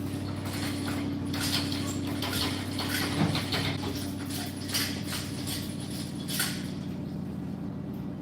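Irregular metal clanks and knocks as an engine and transmission are worked loose and maneuvered out of a pickup's engine bay, over a steady low mechanical hum.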